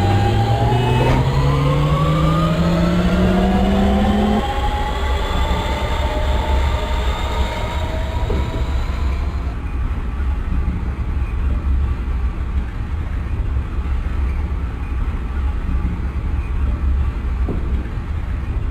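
ML90 metro train pulling away: a whine from its drive rises steadily in pitch. The lowest tone cuts off about four seconds in, while the higher tones keep climbing until about halfway. After that the train runs on with a steady low rumble.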